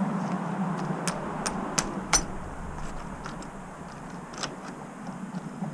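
A few sharp metallic clicks and taps from nuts and tools being handled while the nuts go back onto a motorcycle's handlebar mount, over a steady background hum.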